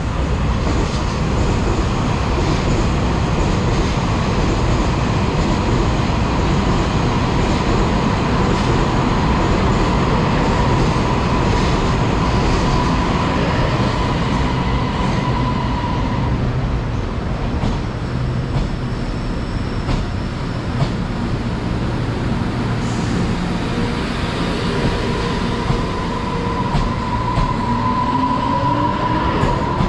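Taiwan Railways electric local train running: a steady rumble of wheels on rails with a steady whine over it. Near the end, a whine rises in pitch.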